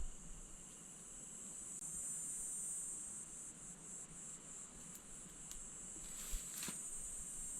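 Steady high-pitched insect chorus, swelling slightly a couple of seconds in, with a faint click or two near the end.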